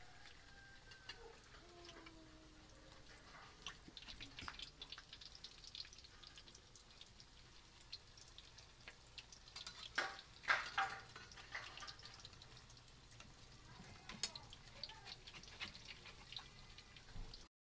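Shredded sweet potato and banana fritters frying in a pan of oil, a faint steady sizzle, with the clicks and scrapes of a metal spatula and spoon turning them. The loudest clatter comes about ten seconds in.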